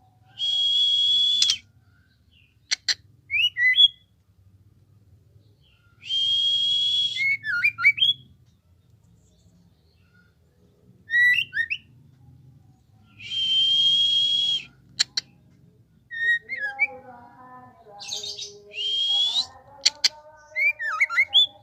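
Young songbird about two months old chirping and calling. Four long, buzzy, whistled calls come a few seconds apart, each followed by quick short chirps, and lower warbling notes come in near the end.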